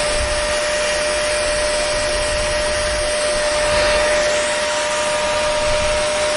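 Hair dryer running steadily, an even rush of blown air with a constant whine over it.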